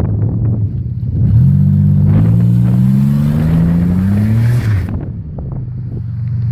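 2003 Buick engine running on open headers with no exhaust at all, after the header bolts snapped. It idles, then revs up steadily for about three seconds and drops back to idle about five seconds in.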